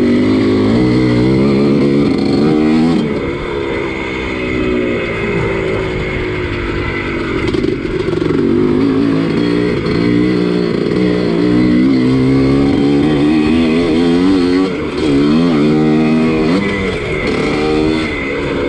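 1983 Husqvarna 250CR two-stroke single-cylinder motocross engine racing, its pitch climbing and dropping again and again as the throttle is opened and shut through the gears. The throttle is briefly chopped about fifteen seconds in.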